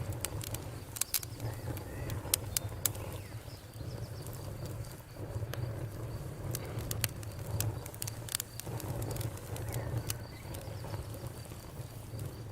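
Campfire crackling, with sharp irregular pops, a few louder ones in the first three seconds, over a low steady rumble of burning wood.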